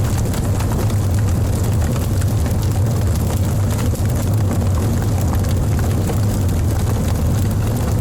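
Wood logs burning in a fireplace: a steady low rumble of flames with frequent small crackles and pops.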